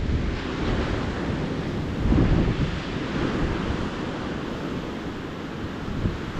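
Ocean surf washing onto a beach in a continuous hiss and rumble, with a louder wave surging about two seconds in.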